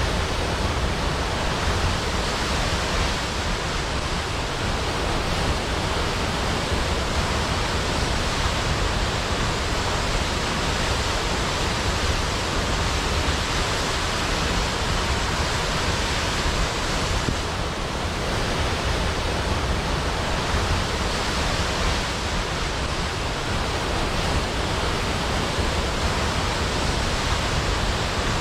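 Large waterfall crashing into a pool: a steady, dense rush of water with no breaks or changes.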